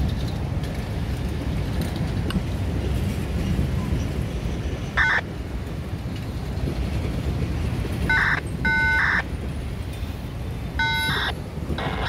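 A CSX mixed freight train of boxcars rolling past with a steady low rumble of wheels on rail, broken by several brief high-pitched squeals from the wheels at irregular moments.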